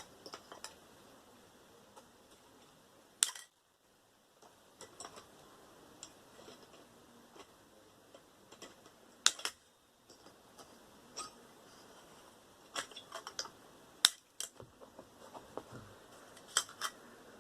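Scattered sharp clicks and metallic clinks of hand tools and loose parts being worked while stripping the copper from a microwave oven transformer, with three louder snaps spread through.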